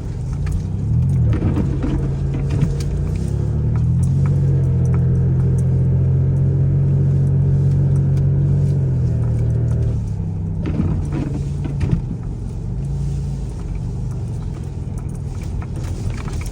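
Car engine running under load while driving. Its pitch rises about a second in, holds steady and loud for several seconds, then eases off about ten seconds in.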